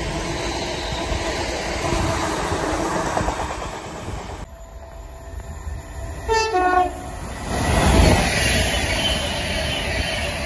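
A Class 350 electric multiple unit running past on the rails. After an abrupt change, a Class 390 Pendolino approaching at speed gives a short two-tone horn blast, then passes with a loud rush of noise.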